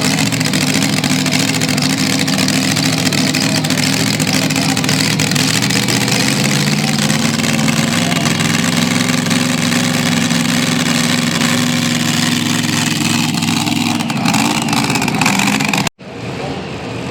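A competition pulling vehicle's engine running hard at high revs as it drags the weight-transfer sled down the track, holding a steady pitch for most of the run. It changes near the end and then cuts off abruptly.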